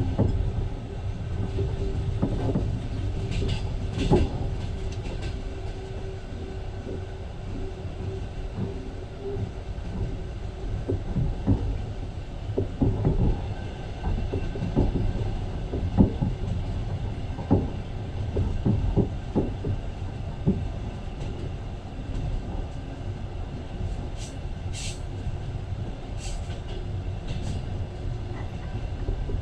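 Passenger train running, heard from inside a carriage: a steady low rumble with irregular knocks and clatter of the wheels over the rails. A faint steady hum fades out in the first third, and a few brief high squeaks come near the end.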